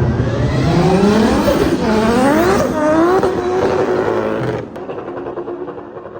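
A car engine under hard acceleration, its pitch climbing and falling back at several quick gear changes, then dropping suddenly to a lower, quieter note about three-quarters of the way through as the driver backs off.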